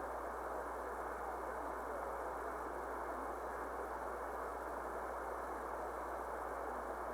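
Steady static hiss from a shortwave receiver tuned to the 10-metre band in single-sideband mode with no signal coming through, held to the narrow voice passband of the SSB filter, with a low hum underneath.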